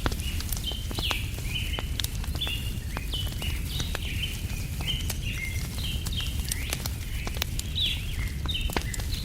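A bird chirping in short high notes, about two to three a second, over a crackling wood fire with scattered sharp pops and a low steady rumble.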